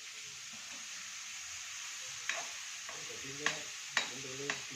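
Long beans sizzling in hot oil as they are stirred in a pan, with the spatula clicking against the pan four times in the second half.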